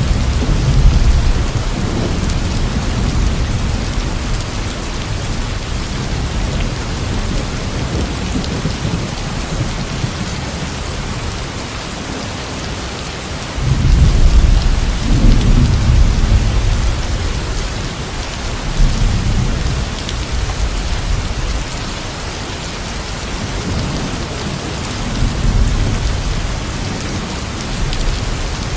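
Steady heavy rain with thunder rolling several times, the loudest rumble breaking in suddenly about halfway through and fading over a few seconds.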